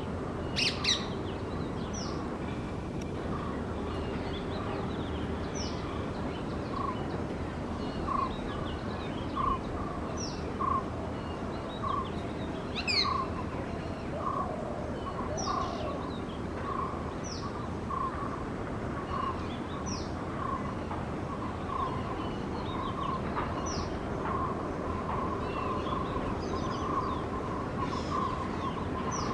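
Rose-ringed parakeets giving short, shrill, falling calls every second or two. Underneath runs a steady string of lower short notes, about one a second, over a constant background hiss.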